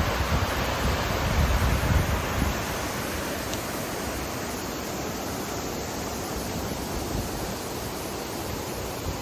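Mountain river water rushing steadily over rocks. Low buffeting in the first couple of seconds.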